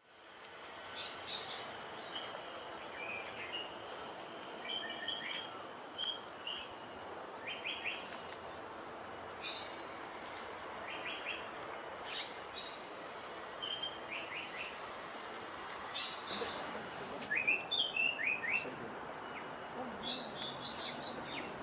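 Outdoor birdsong: short clusters of quick high chirps every second or two, loudest about three-quarters of the way through. Underneath is a steady high insect drone and a general outdoor hiss.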